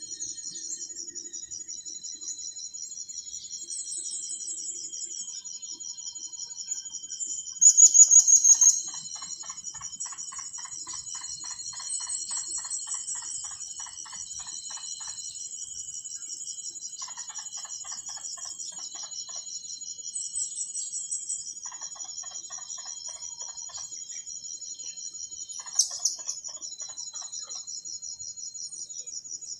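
Outdoor insect chorus: a steady, high-pitched pulsing trill runs throughout. Over it, a short loud high call comes about 8 seconds in and a sharp one near 26 seconds, with stretches of a lower, rapid pulsing in between.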